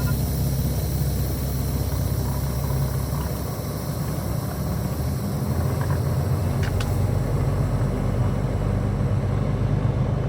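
A semi truck's diesel engine running steadily, a low hum with a brief click about seven seconds in.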